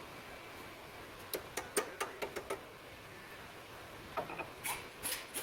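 Quick runs of sharp clicks and knocks of tools and bolts being handled while the strut-to-knuckle bolts are removed. About eight come in close succession a little over a second in, and more start near the end.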